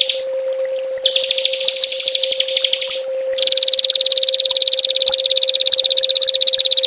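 Small songbird's rapid-fire trills ('tembakan'): a short burst, then one of about two seconds, then from about three and a half seconds in a long, even, very fast trill that carries on. A steady low tone runs underneath.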